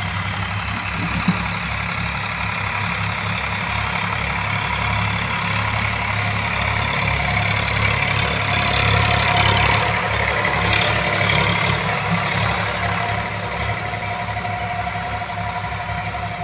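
A 40 hp tractor's diesel engine running steadily while pulling a field leveller, getting louder for a few seconds in the middle.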